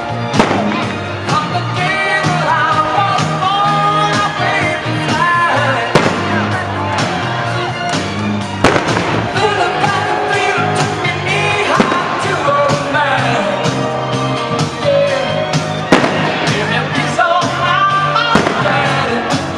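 Rock-style music with singing, played loud, with sharp firework bangs cutting through it about six times, a few seconds apart.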